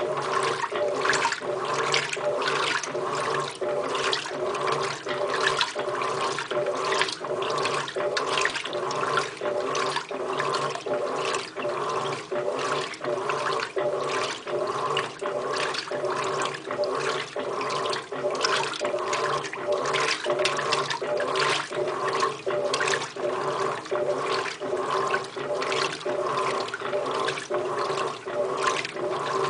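Electrolux LTR15 top-loading washing machine agitating on its heavy-duty cycle: the agitator swishes water and laundry back and forth in an even rhythm of about two strokes a second, over a steady motor hum.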